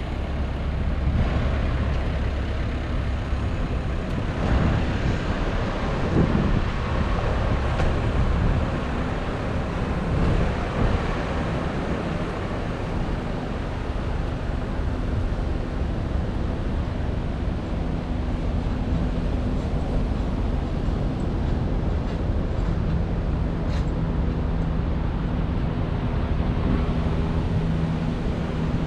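A running motor vehicle: steady, dense low noise, with a faint steady hum coming in about two-thirds of the way through.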